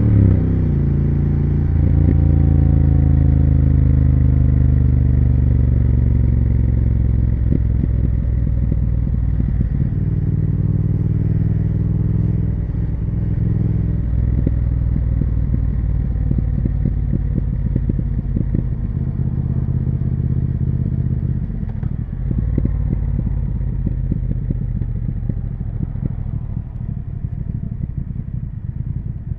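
Triumph Speed Twin 1200's parallel-twin engine and exhaust, heard from the rider's seat. The revs fall over the first couple of seconds as the bike slows, then it rumbles along at low, steady revs with scattered light clatter.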